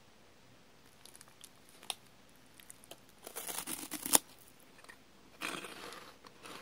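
Crunching as a glazed, grilled-chicken-flavoured Umaibo corn puff stick is bitten into: a crackly burst ending in a sharp crack about four seconds in, then a second crunchy burst about a second and a half later.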